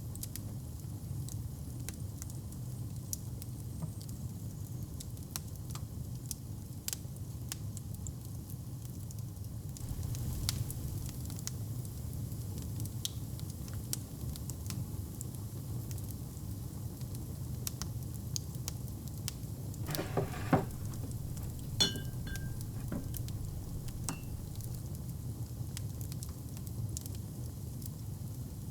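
Wood fire burning in a fireplace: a steady low rumble with scattered crackles, and a few louder pops about twenty seconds in.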